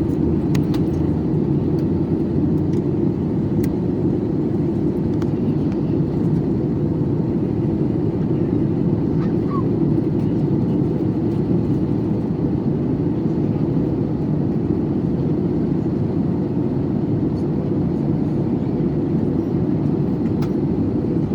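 Steady drone of an airliner's engines and airflow heard inside the passenger cabin on the approach to landing, with a thin steady hum on top.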